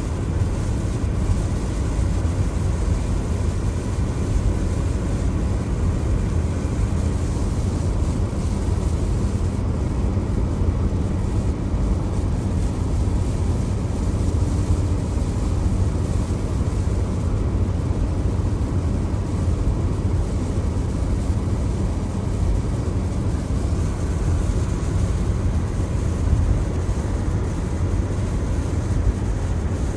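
Car driving on a rain-wet road: a steady deep road rumble with the hiss of tyres on wet pavement and rain above it, unchanging throughout.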